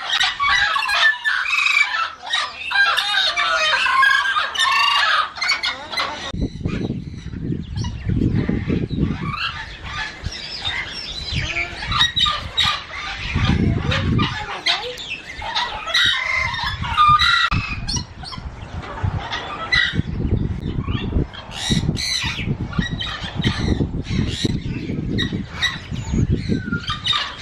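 Aviary of parrots and smaller cage birds calling, a busy mix of squawks and chirps. From about six seconds in, bursts of low rumble come and go underneath.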